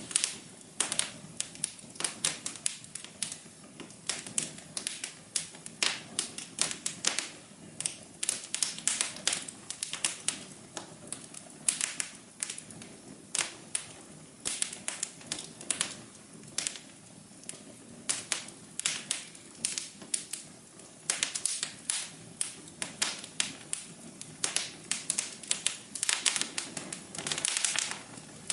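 Wood fire crackling in a fireplace: irregular sharp pops and snaps, several a second, over a soft low background hiss.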